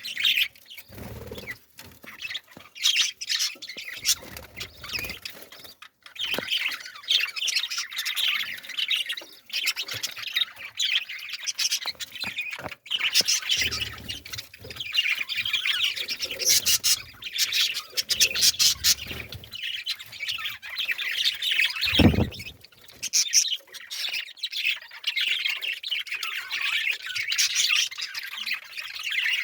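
A flock of birds squawking and chirping continuously, many calls overlapping. A single dull thump cuts through about three quarters of the way in.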